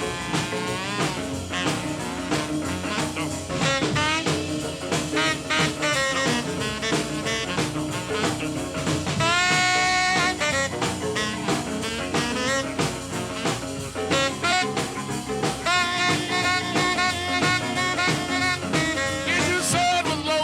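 Instrumental break of a jump-blues boogie record, with no singing. A lead instrument plays sliding and held notes over a steady swinging band rhythm with drums.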